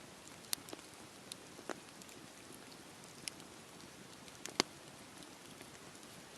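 Campfire burning: a steady low hiss with scattered sharp crackles and pops, the loudest about four and a half seconds in.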